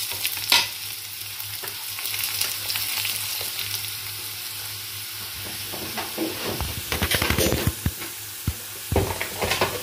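Onions, cumin seeds and dried red chillies sizzling steadily in hot ghee for a tadka, stirred with a silicone spatula. Scrapes and knocks of the spatula against the pan come in a busier run from about six seconds in.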